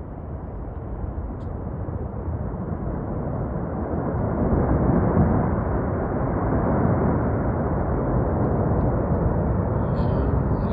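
Avalanche coming down: a deep, rushing noise that builds over the first four seconds or so and then holds steady and loud.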